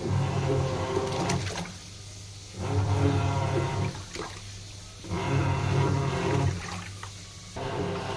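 Sharp washing machine in its wash cycle: the motor churns the load in surges about every two and a half seconds, with water sloshing and a low motor hum, and short pauses between.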